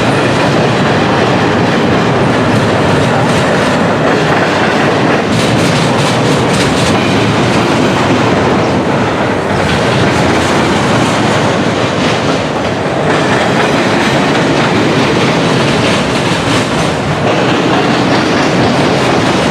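Long CSX freight train of intermodal, autorack and manifest cars rolling past close by. The wheels click steadily over the rail joints, loud throughout.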